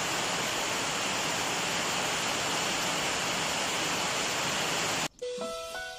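Steady rain, an even hiss that cuts off abruptly about five seconds in. A few clear single music notes follow.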